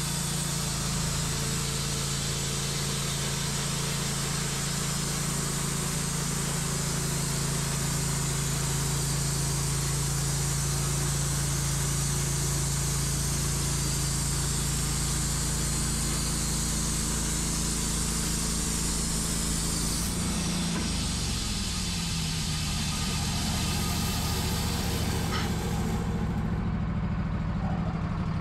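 Wood-Mizer LT15 bandsaw mill running, its blade cutting through a black cherry log: a steady engine drone under a loud, even hiss. About 20 seconds in the cutting hiss fades and the engine note changes as the cut ends.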